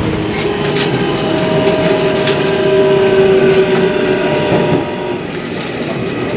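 Electric rapid train arriving at a station, heard from inside the car: a steady whine with clicks of the wheels over rail joints and points. It grows quieter about five seconds in as the train slows.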